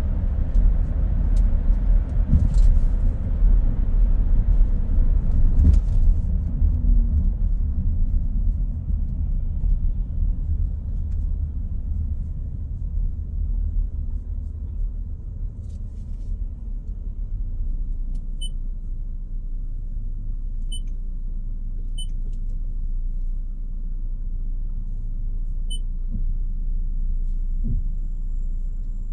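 Car driving on a road: low engine and tyre rumble, loud at first, easing to a steady low hum about ten seconds in. A few faint, short high pips come in the second half.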